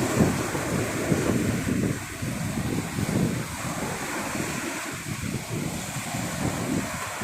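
Sea surf washing on a beach, with wind gusting on the microphone in uneven low rumbles over a steady hiss.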